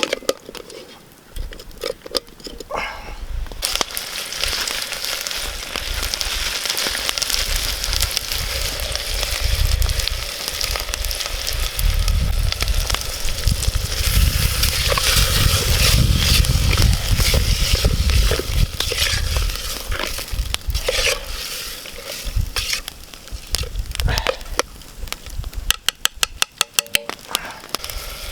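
Chopped onions frying in oil in a pot over a campfire: a steady sizzle that sets in a few seconds in, with a low rumble through the middle and a quick run of clicks near the end.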